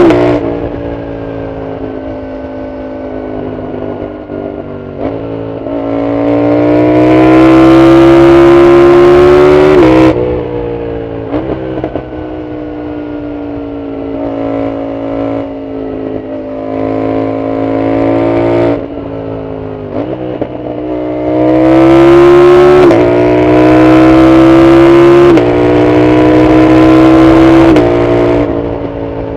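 Yamaha MT-07's CP2 parallel-twin engine through a full Arrow aftermarket exhaust, accelerating hard with the note climbing, then dropping sharply at each upshift. It pulls once about a third of the way in, runs quieter at lighter throttle for a while, then pulls again through three quick upshifts near the end.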